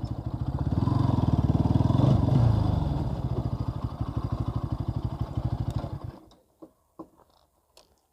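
Bajaj Pulsar NS 200's single-cylinder engine idling with an even beat, a brief rise in revs around two seconds in, then switched off about six seconds in. A few light clicks follow.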